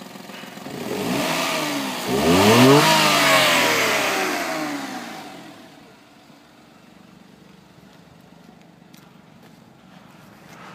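Daihatsu Tanto's 660 cc three-cylinder engine being revved: the pitch climbs about a second in, rises sharply to a peak a couple of seconds later, then falls back over a few seconds and settles to a quieter idle.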